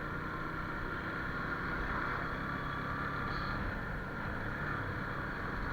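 Motorcycle engine running steadily while riding, under an even rush of road noise.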